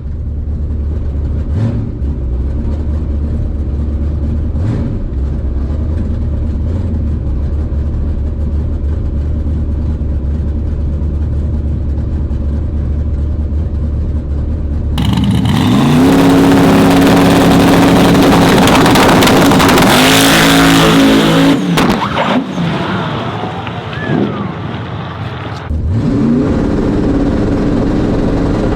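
A drag-racing truck engine idles with a steady low rumble. About fifteen seconds in, a truck launches at full throttle, its engine revving up loudly for roughly six seconds before fading away. Near the end another engine revs up.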